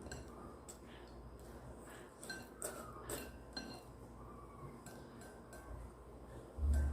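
Cutlery clinking against dishes as someone eats, a few light clicks and faint ringing, with a dull low thump near the end.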